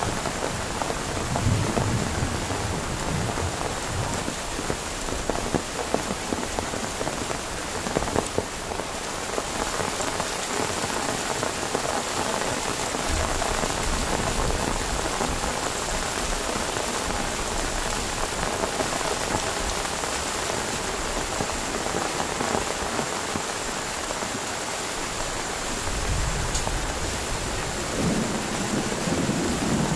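Heavy rain falling steadily, with low rumbles of thunder about halfway through and again near the end.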